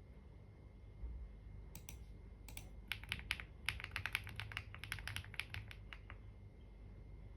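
Typing on a computer keyboard: two or three single keystrokes, then a quick run of keystrokes lasting about three seconds that stops about six seconds in.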